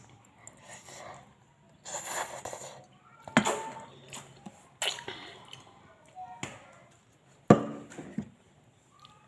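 Close-up eating sounds of a spicy-noodle mukbang. About two seconds in there is a short noisy slurp, and it is followed by four sharp clicks and knocks, the last and loudest about three-quarters of the way through.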